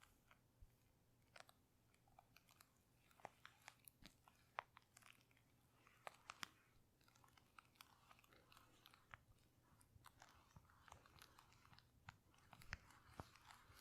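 Faint, irregular crisp clicks and crackles from a close-miked ASMR trigger, sharp ticks scattered unevenly over a soft crackly hiss.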